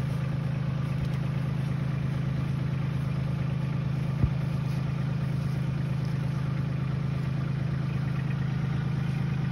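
Diesel tractor engine running steadily at idle, with one sharp click about four seconds in.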